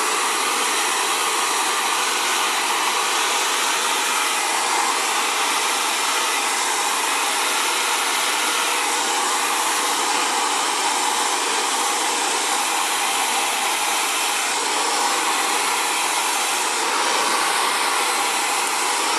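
Xtava Allure 2200-watt ionic ceramic hair dryer blowing steadily, an even airflow noise with no pauses.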